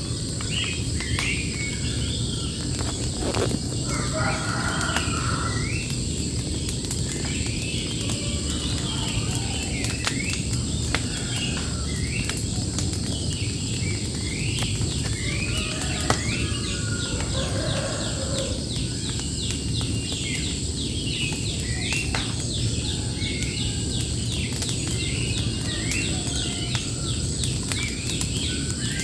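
Small birds chirping over and over in short, quick rising notes, over a steady high insect buzz and a low outdoor rumble, with occasional faint clicks.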